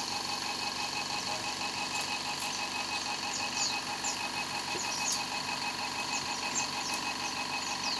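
A machine running steadily, with a fast pulsing rhythm in its hum, and short high falling chirps scattered through it.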